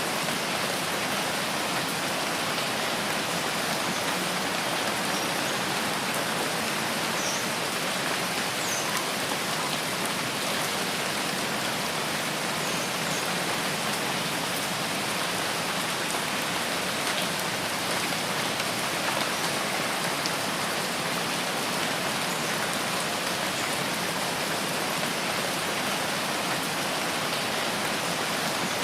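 Steady rain falling in a rainforest, an even unbroken hiss, with a few faint high chirps scattered through it.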